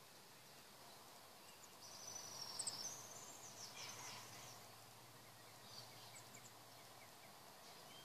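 Faint, high-pitched small-bird trill about two seconds in, followed by a few short chirps, over a quiet garden background.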